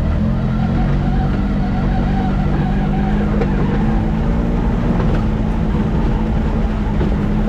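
Can-Am X3 side-by-side's turbocharged three-cylinder engine running steadily under way, with no big rev changes.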